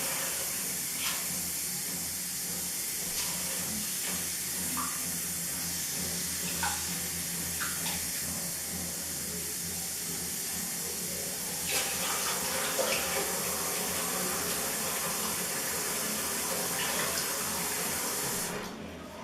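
Tap water running steadily, with a few faint knocks, then shut off shortly before the end.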